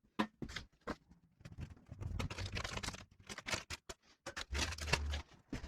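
Irregular light clicks, taps and rustling of parts and tools being handled, starting suddenly.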